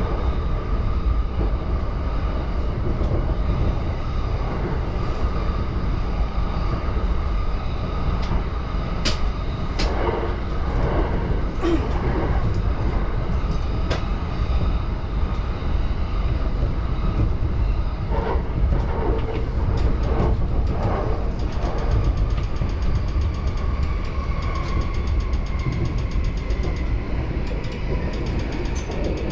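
JR Yamanote Line commuter train running between stations, heard from inside the car: a steady low rumble of wheels on rails with scattered sharp clicks. A faint higher whine comes in about two-thirds of the way through.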